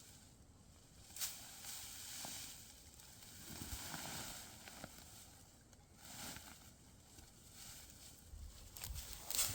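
Faint rustling and crackling that swells and fades, with a sharp click about a second in and another, louder one near the end.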